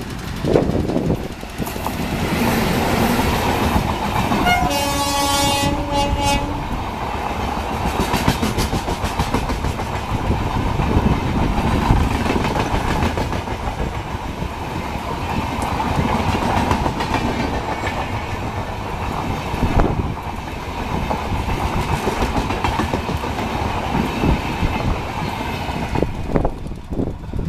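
Indian Railways Humsafar Express passenger train passing, its wheels clattering over the rails, with the locomotive's horn blown once for about two seconds around five seconds in.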